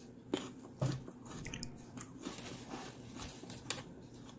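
A person biting and chewing a raw celery stick: a string of faint, crisp crunches and mouth sounds.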